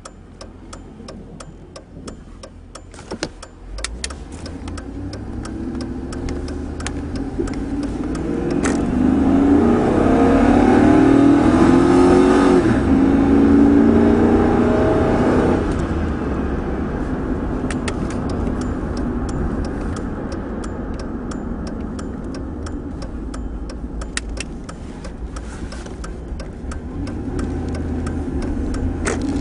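Truck engine pulling away and accelerating, its pitch climbing as it gathers speed, then easing back to a steady cruise before picking up again near the end. Regular ticking is heard at the start.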